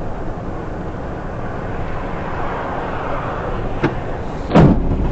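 Dash-cam recording from a moving car: a steady road and engine rumble, a sharp click nearly four seconds in, then a loud, heavy thump about half a second later.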